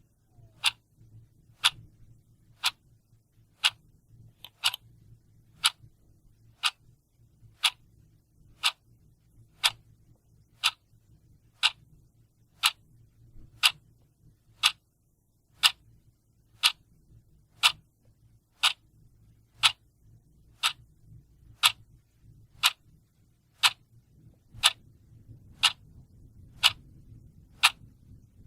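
A mechanical clock ticking steadily, one sharp tick about every second.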